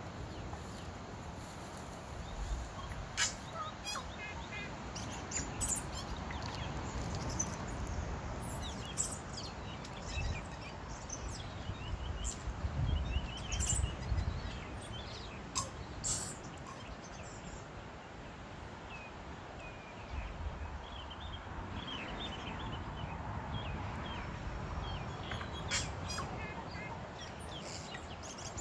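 A tui singing: a varied run of sharp clicks and short chirping notes, in separate phrases throughout.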